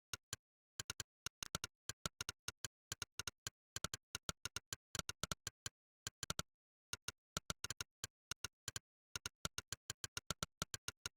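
Monkeytype's 'click' keypress sound effect: a short, sharp synthetic click for every keystroke, coming in quick irregular runs of several a second with brief pauses between them.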